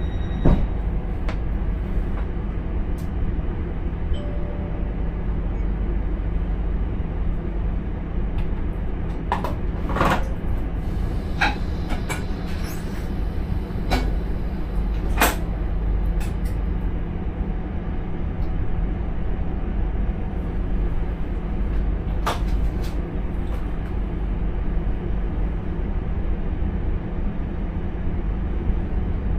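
Electric intercity train heard from inside the driver's cab: a steady low rumble and hum, with scattered short clicks and knocks, several in a cluster in the middle and one more later on.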